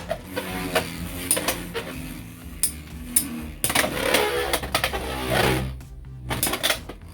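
Two Beyblade X Hells Hammer 3-70 Hexa tops spinning against each other in a plastic stadium. A steady spinning whine runs under repeated sharp clacks as they collide.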